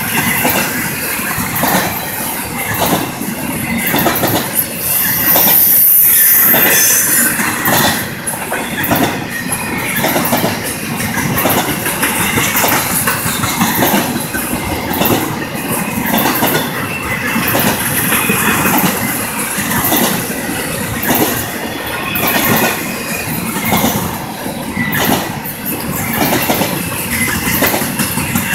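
Freight train of empty intermodal flatcars rolling past, its wheels clacking over the rail joints in a steady repeating rhythm. A high-pitched wheel squeal rises about five seconds in and lasts a second or so.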